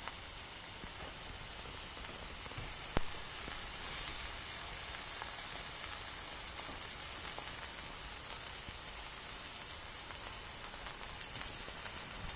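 Beef rump cap sizzling on a 6 mm steel griddle plate over a charcoal fire: a steady frying hiss that swells twice. There is one sharp pop about three seconds in.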